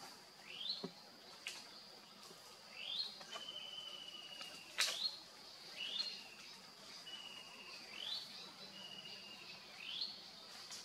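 A bird calling: a short rising chirp repeated every second or two, with a few longer, slightly falling whistles between them. Behind it runs a steady high whine, and two sharp clicks stand out, the louder one near the middle.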